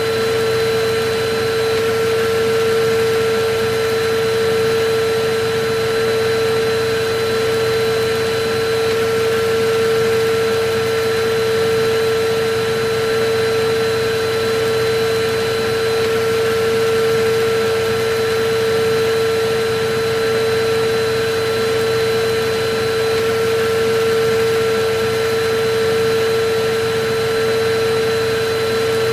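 Electric vacuum cleaner motor running steadily, a constant rushing of air over a steady mid-pitched hum, used as continuous white noise.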